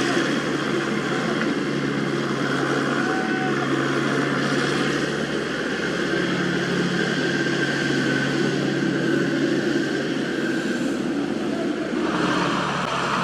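Diesel engine of heavy construction machinery running steadily, its speed rising slightly about halfway through, with a faint higher whine coming and going.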